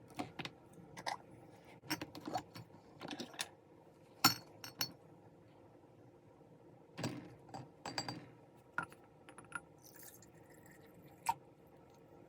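Scattered clinks and knocks of small hard objects being handled, some with a brief ringing. They bunch in the first few seconds and again from about seven seconds in, with a lull between.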